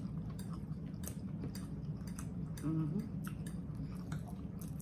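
Close-miked chewing: the wet clicks and smacks of people eating soft beef liver in tomato gravy, over a steady low hum, with a brief murmur about three seconds in.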